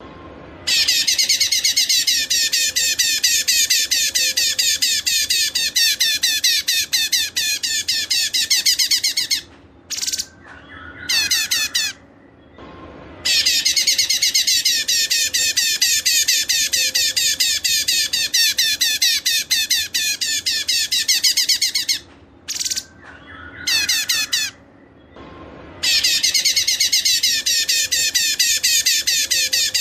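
Small caged songbirds singing a fast, high-pitched chattering song in long phrases of about eight or nine seconds, broken by short pauses. These are mixed training-song birds such as cungkok, cikris and canary.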